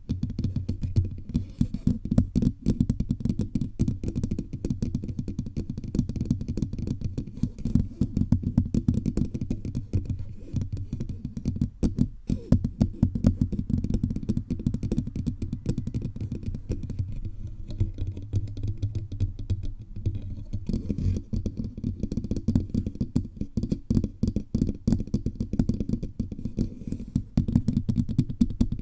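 Fingertips tapping rapidly and unevenly all over a bare microphone, picked up as a dense stream of dull, bass-heavy thumps with light clicks.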